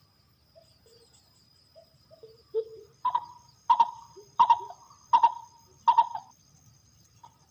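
Dove cooing used to lure doves: a few soft, low coos, then about three seconds in a run of five loud, evenly spaced coo notes.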